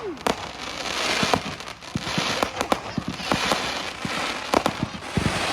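Fireworks going off: a rapid scatter of bangs and pops over a crackling hiss that swells and fades several times.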